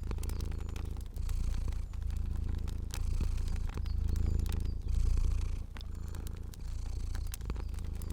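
A cat purring steadily, the low rumble swelling and easing about once a second with its breathing, over the sharp pops and clicks of a crackling fire.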